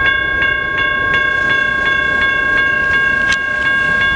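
Railroad crossing bell ringing steadily, about three strokes a second, over the rumble of freight cars rolling through the crossing.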